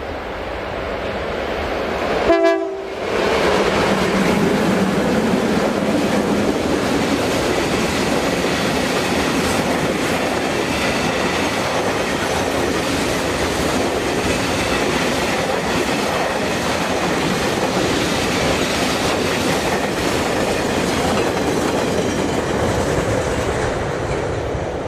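Electric locomotives hauling a container freight train past at speed: a steady rumble of wagons and wheels on the rails, with a rhythmic clickety-clack over rail joints. There is a brief sharp toot about two seconds in, as the locomotives pass.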